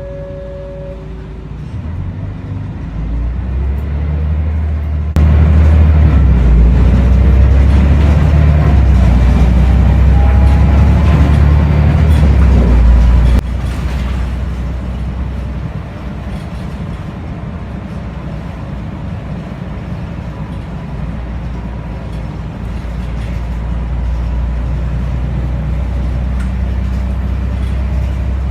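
Scania L113CRL bus's diesel engine pulling away and accelerating, a low rumble with a rising whine that is loudest from about five to thirteen seconds in, then drops sharply to a steadier, lower running sound.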